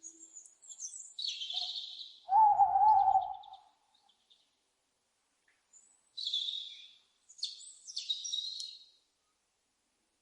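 Owl calls: several harsh, hissing screeches, with one louder, wavering call about two seconds in.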